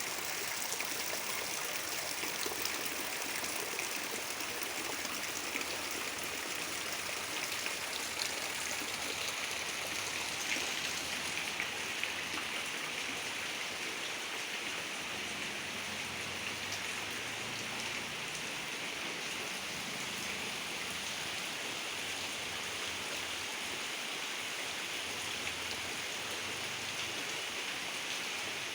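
Heavy rain falling, a steady hiss of water with a few faint drip ticks in the first half.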